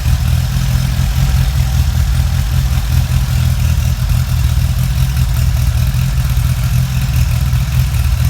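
Renault Ventoux 904 cc inline-four engine idling steadily at an even low speed, with no revving.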